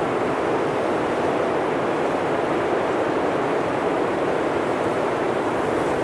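Blizzard wind blowing steadily through forest trees, an even, unbroken rush of noise with no gusts standing out.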